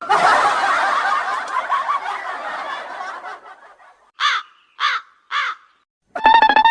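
Animal calls: a dense, fading chatter of many overlapping small calls, then three short calls evenly spaced about half a second apart, each falling in pitch.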